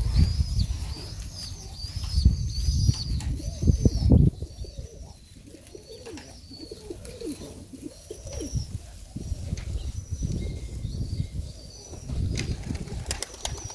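Serbian highflier pigeons in a loft: wings flapping in flurries during the first four seconds and again near the end, with wavering low cooing in between. A quick run of repeated high chirps comes early.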